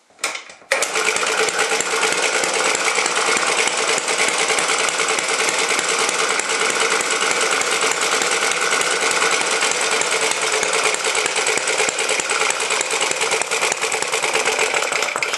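Antique small gas engine catching about a second in, then running loud and fast at a steady pace until it drops off at the very end.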